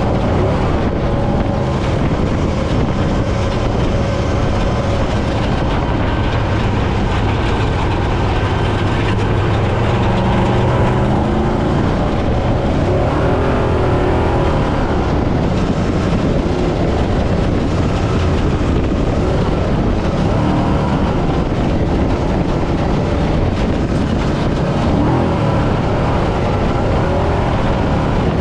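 Brenthel 6100-class trophy truck being driven over desert terrain: a loud, constant din of engine and rattling chassis noise, with the engine note rising and falling in pitch partway through.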